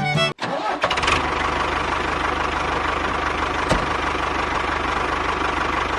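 Engine starting, a few clicks and then a catch, and settling into a steady idle with a fast, even low chug.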